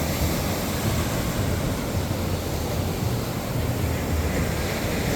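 Wind rumbling on the phone's microphone over the steady hiss of surf.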